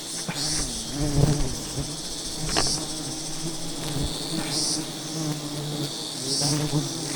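A swarm of giant honey bees buzzing as a steady, loud drone, with a few sharp clicks. The colony is agitated and defensive, described as very fierce today.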